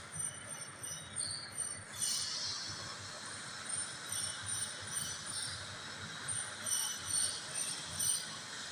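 Lathe running with a steady hiss, broken again and again by short high-pitched squeals of the cutting tool against the turning workpiece.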